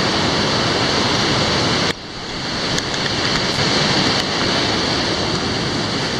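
Steady rushing of a large waterfall. The level drops suddenly about two seconds in, then builds back up.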